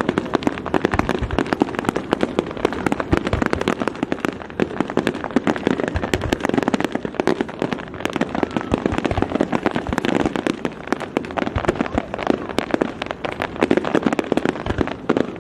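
Aerial fireworks display: a dense, continuous crackle of many rapid pops, with a few heavier low bangs among them.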